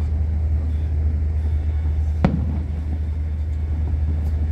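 A single firework bang about two seconds in, with a short echoing tail, over a steady low rumble.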